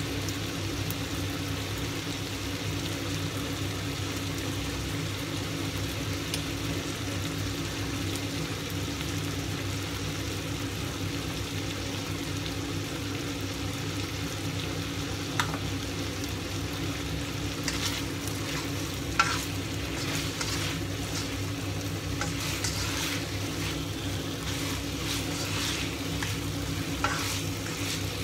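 Eggplant and minced pork frying in a wok with a steady sizzle over a low hum. From about halfway there are a few sharp clicks of a spoon and spatula against the pan, with stirring near the end.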